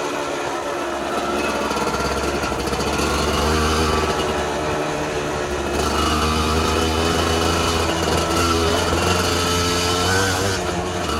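Dirt bike engine running, its pitch wavering up and down as the throttle is worked, getting louder a few seconds in.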